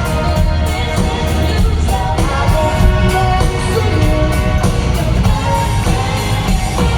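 Live rock band music with a sung melody over a steady bass and drum beat.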